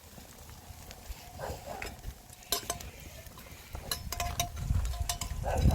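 Eating utensils clinking and scraping against a pot of ramen as it is served and stirred: a quiet start, then a run of sharp clicks and short metallic rings from about halfway through.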